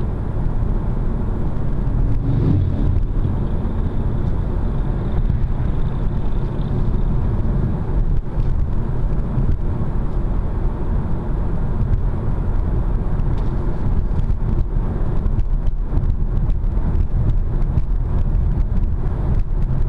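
Inside a moving car's cabin: steady low engine and tyre rumble while driving at about 80 km/h, with scattered light ticks and knocks in the second half.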